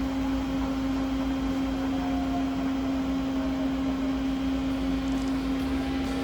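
Nakamura-Tome TMC-400 CNC turning center running under power: a steady machine hum with one strong low tone.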